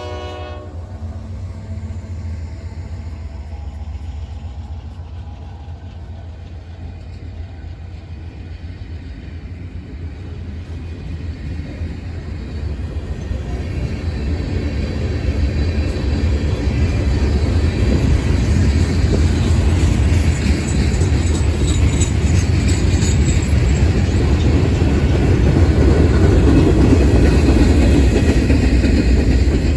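Train approaching after its horn: a low rumble that grows steadily louder from about a fifth of the way in. Rail and wheel noise joins the rumble past the halfway point as the train draws level.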